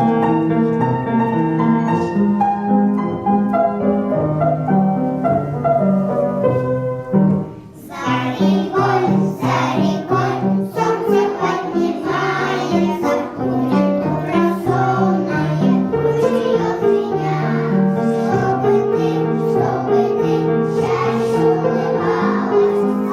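A keyboard or piano accompaniment plays an instrumental introduction. From about eight seconds in, a group of young children sings along with it.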